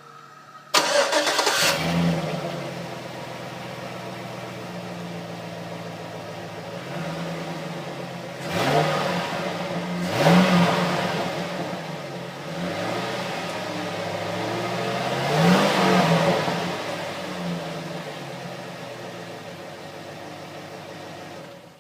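A 2005 Chevy truck's 5.3-litre V8 starts up, flaring loudly, then idles through its exhaust and is revved several times, with four clear revs climbing and falling back to idle.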